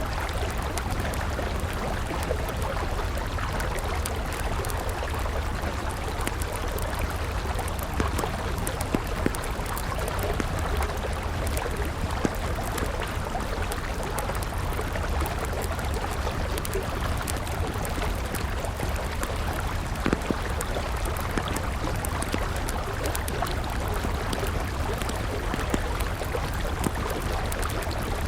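River water flowing in a steady rush, with a wood campfire crackling over it in scattered small snaps and a few louder pops.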